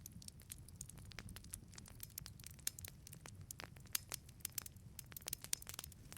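Wood fire burning in a wood-fired pizza oven: a steady low rumble of flame under irregular sharp crackles and pops from the burning wood.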